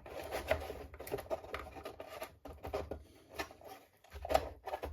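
Light, irregular knocks and scrapes of a wooden keel piece being pushed into the slots of a wooden model boat hull.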